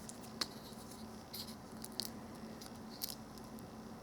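A few faint crackles and clicks about a second apart as brittle, hardened old rubber PCV hoses are squeezed and handled; the hoses are stiff and crunchy from age.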